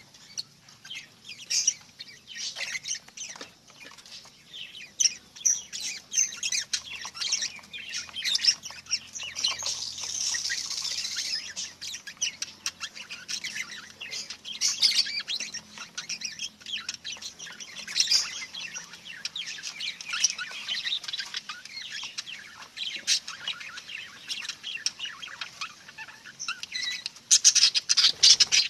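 Budgerigars chattering: a steady run of short, high chirps and warbles, with a busier, louder flurry of chirps near the end.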